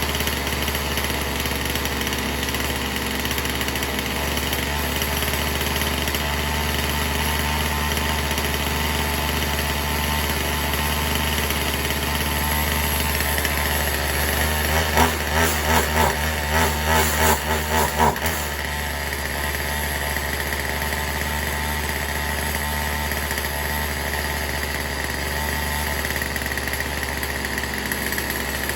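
Two-stroke Poulan Pro 4620 chainsaw running at a steady idle after carburettor tuning. About halfway through, the throttle is blipped in a quick series of about six short revs, then the saw settles back to idle.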